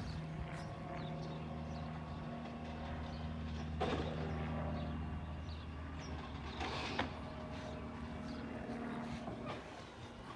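Peterbilt 320 garbage truck engine running steadily, with two short sharp knocks about four and seven seconds in. The engine note drops away shortly before the end.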